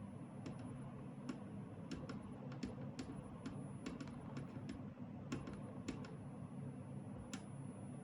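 A car's faulty actuator making an irregular clicking, a few sharp ticks a second, over a steady low hum.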